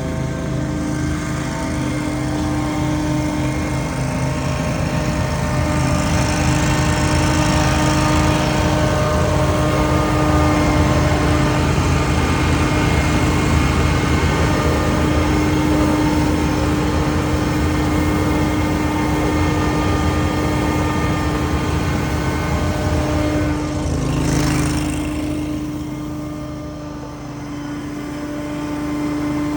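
Engine of outdoor power equipment running steadily at working speed with a steady droning tone; its loudness eases off for a few seconds near the end, then picks back up.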